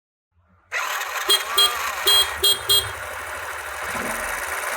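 Motorcycle engine starting up and running steadily, with five short horn beeps in quick succession early on.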